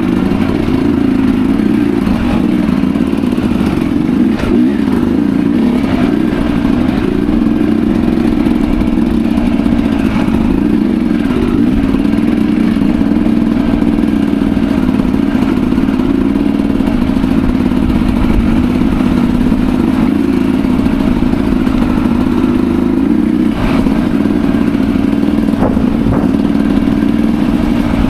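Enduro dirt bike engine running steadily under way, holding a fairly even pitch, with a few faint knocks and clatter from the ride.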